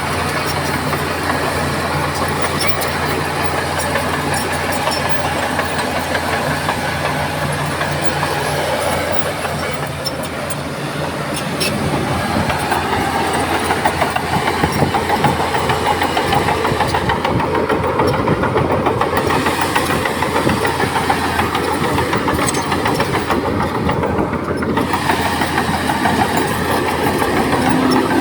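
Crawler bulldozer's diesel engine running steadily; about twelve seconds in the sound grows louder and rougher as the machine works.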